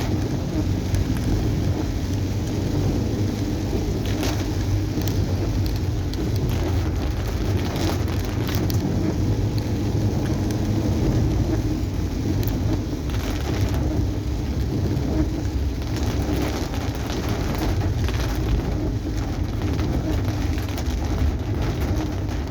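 Heavy rain beating on a moving car's body and windshield, heard from inside the cabin, with many scattered sharp drop ticks over a steady low rumble of engine and tyres.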